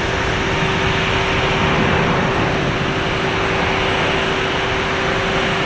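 Steady rushing noise of a jet airliner heard from inside the passenger cabin, with a steady engine tone.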